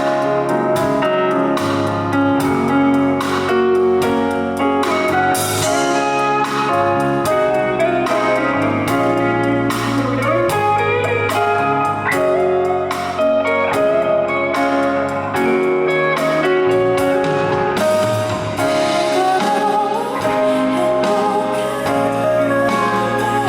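Live band music played on stage, an instrumental passage led by guitar over sustained chords with a steady beat.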